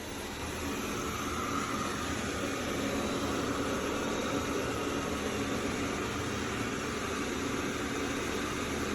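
AIRROBO T20+ robot vacuum running in cleaning mode: a steady whirring noise of its suction fan and brushes, growing a little louder over the first second or two.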